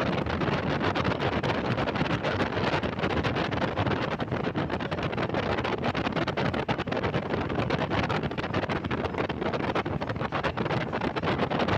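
Wind buffeting the microphone aboard a boat at sea: a steady, rough rushing noise with no clear engine note.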